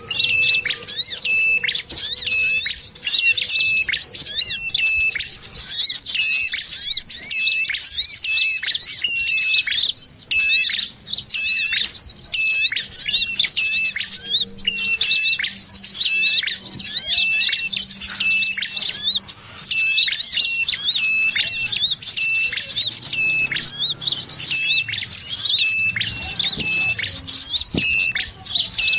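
Looped bird-lure recording of small songbirds: dense, rapid high chattering, the sogon lure chatter mixed with prenjak and brown-throated sunbird (kolibri kelapa) calls, with a short flat note repeating about every three quarters of a second. It breaks off briefly twice.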